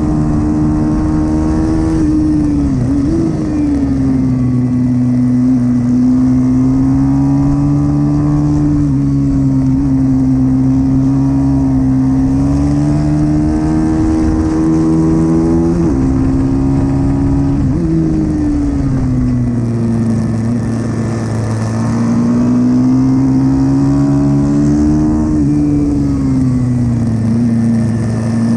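Pit bike engine racing, its note rising and falling repeatedly as the throttle opens and closes, with brief sharp drops in pitch at gear changes and corners.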